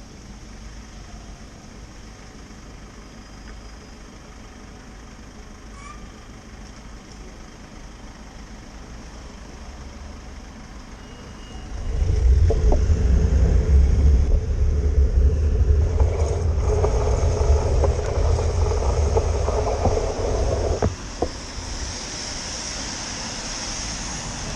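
City road traffic heard from a bicycle on a wet street: a steady background hum, then a loud low rumble starting suddenly about halfway through and dropping away some nine seconds later, as of a heavy vehicle passing close.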